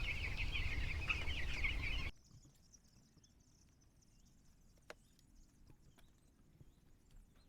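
A shed full of 12-day-old broiler chicks peeping, a dense high chorus. About two seconds in it cuts off abruptly, leaving only faint peeping and a few small clicks.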